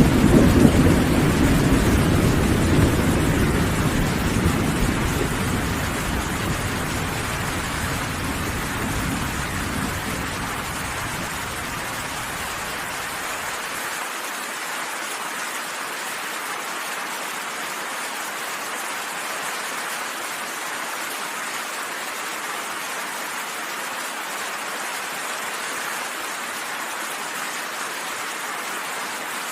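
Steady heavy rain falling, with a low rolling rumble of thunder that is loud at first and fades away over about the first twelve seconds, leaving only the rain.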